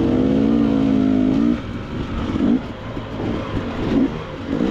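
KTM 300 XC-W two-stroke dirt bike engine held at steady revs for about a second and a half, then the throttle comes off and the engine runs in several short revving blips.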